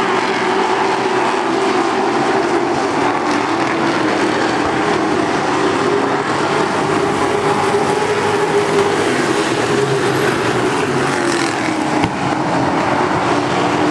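Engines of racing trucks running at speed on the track, a continuous mixed drone of several engines.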